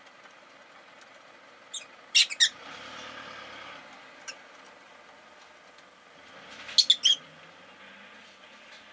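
Rosy-faced lovebird giving short, sharp, high chirps in two quick bursts, one about two seconds in and another about seven seconds in.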